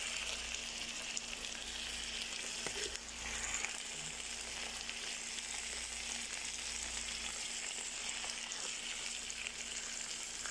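Bitter melon with chilli paste and fried anchovies sizzling steadily as it stir-fries in a wok, with a spatula stirring it now and then.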